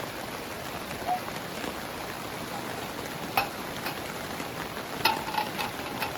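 Steady heavy rain, with a few sharp clinks: one about halfway through and a short run of several near the end.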